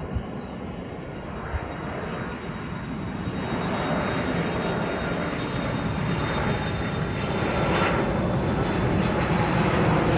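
Boeing 747-400's four turbofan engines on landing approach: a broad jet rumble growing steadily louder, with a thin steady whine high above it.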